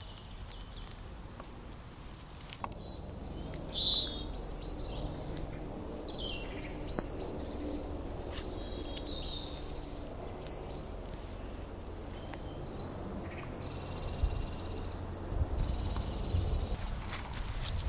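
Wild birds singing and chirping: scattered short high calls, then two buzzy trills of about a second each near the end, over a steady low rumble.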